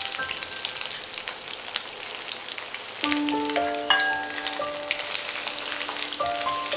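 Dried anchovies deep-frying in hot oil in a wok, a dense crackling sizzle, stirred with a wooden spatula. Background music comes in about three seconds in.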